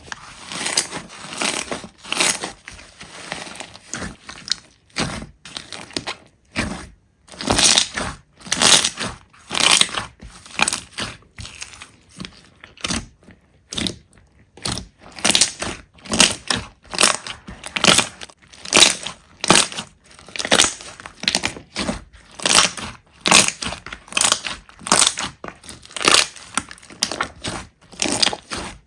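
Slime being pressed and squeezed by hand, giving crunching, crackling noises in repeated bursts about once or twice a second, with a short pause about halfway through.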